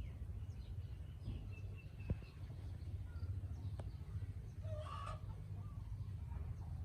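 Faint bird calls, with one louder short call about five seconds in, over a steady low hum and a couple of light knocks.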